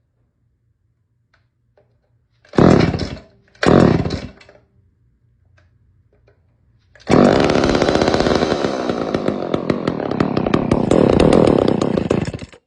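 Vintage Homelite XL-76 two-stroke chainsaw cold-started on choke. It fires briefly twice, then about seven seconds in it catches and runs for several seconds before cutting off suddenly.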